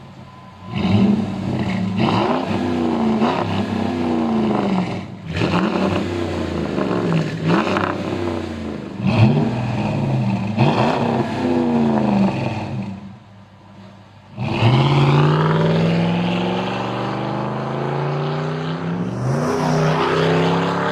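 Dodge Ram 1500's 5.7 L Hemi V8 through a Flowmaster Outlaw cat-back exhaust with a Super 10 Series muffler: a string of quick revs, each rising and falling. After a short lull, one long pull with the pitch climbing steadily.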